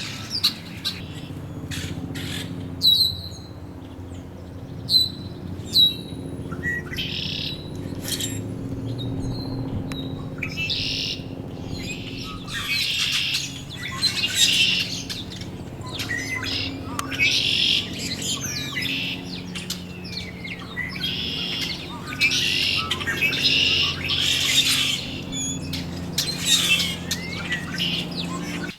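Several backyard birds calling at once, such as grackles, starlings and red-winged blackbirds: a few short, sharp chips in the first few seconds, then steady overlapping chatter over a low, steady hum.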